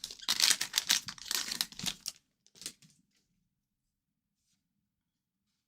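A hockey card pack's wrapper being torn open and crinkled in a rapid crackling run for about two seconds, then one more short crinkle.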